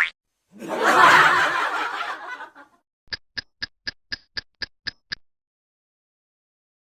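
A snickering laugh lasting about two seconds and fading out, then a run of nine sharp, even clicks at about four a second.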